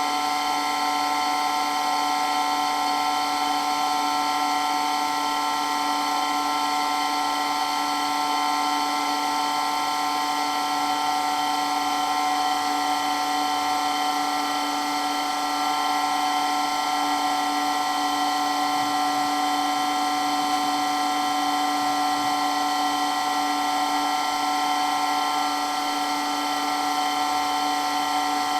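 Water-blasting pump running steadily, with an even, unchanging whine.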